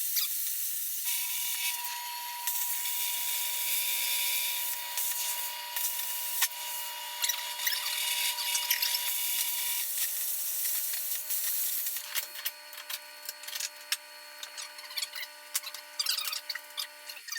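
Plasma cutter cutting metal: a steady hiss with a constant whine that starts about a second in. For the last few seconds it is quieter and crackles, then it cuts off sharply near the end.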